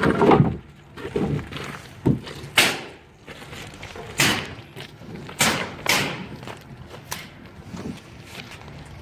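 Scrap wooden boards and studs being handled, giving a series of sharp knocks and thuds, about seven spread irregularly over nine seconds.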